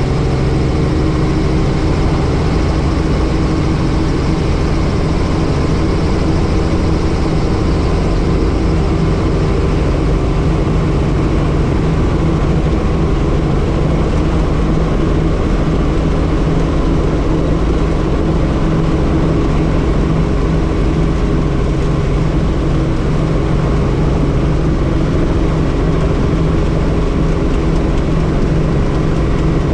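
Helicopter in flight, a loud, unchanging drone of engine and rotor with steady low tones over a rushing noise.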